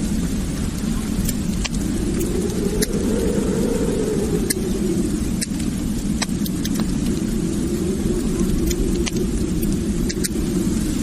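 Wood fire burning in a fireplace: a steady low rumble of the flames with scattered, irregular sharp crackles and pops.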